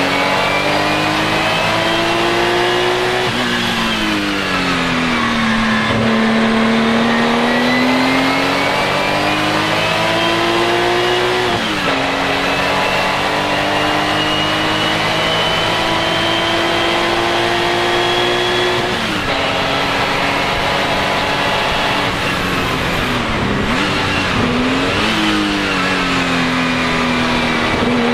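Porsche 935 K3's turbocharged flat-six racing engine running hard around a lap, its pitch climbing under acceleration and dropping sharply at two upshifts. Twice it slows for corners: once with a smooth fall in revs and once, near the end, with a quick up-and-down wobble in pitch before it climbs again.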